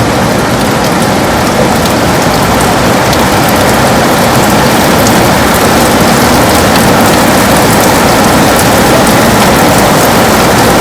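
Heavy rain falling steadily on a window: a dense, even hiss with faint scattered drop ticks.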